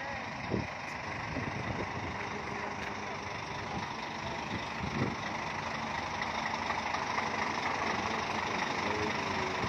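Heavy diesel engine running steadily, as of a bus idling. There are two brief knocks, about half a second in and about five seconds in.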